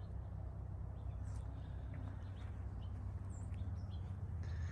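Outdoor ambience: a scatter of faint, short bird chirps over a steady low rumble.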